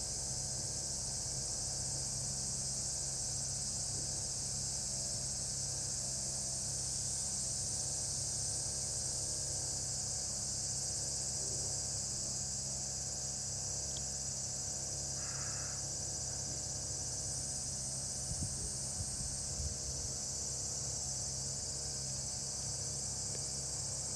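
A steady, high-pitched chorus of insects trilling without a break, over a low hum. There is one brief faint sound about 15 seconds in.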